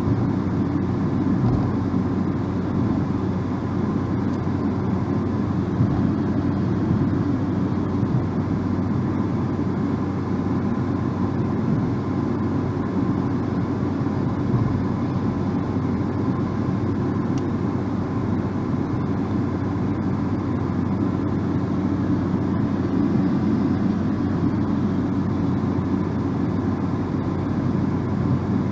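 Steady road noise from a car moving at an even speed, heard inside the cabin: a low, even rumble of tyres and engine with a constant low hum.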